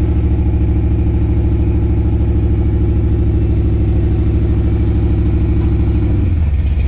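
Chevrolet Monte Carlo engine idling loud and steady with an even pulse; about six seconds in, the idle sags to a lower pitch. The owner finds its idle so low that it feels close to stalling at a light.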